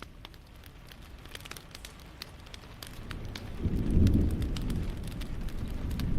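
Wood fire crackling with scattered sharp pops over a soft hiss of rain. About three and a half seconds in, a low rumble of thunder swells up and rolls on.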